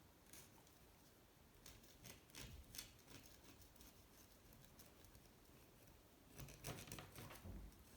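Faint scrapes and a few light clicks from hand work on a small motorcycle engine's opened crankcase, with a soft thud near the end.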